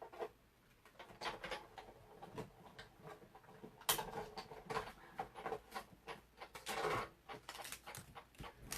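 Cardstock and paper pieces being handled and shifted on a table, with irregular light taps, rustles and scrapes and a sharper tap about four seconds in.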